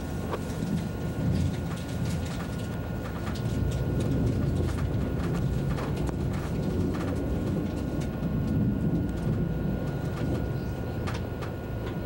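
ICE high-speed train running: a steady low rumble with scattered faint clicks and ticks.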